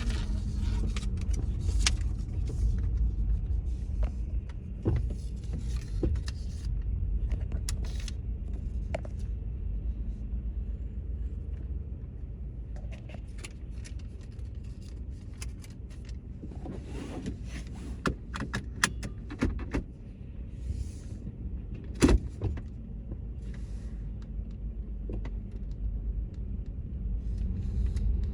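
Automatic car wash tunnel in operation: a steady low rumble with intermittent spells of spraying hiss and scattered knocks, the sharpest about three quarters of the way through.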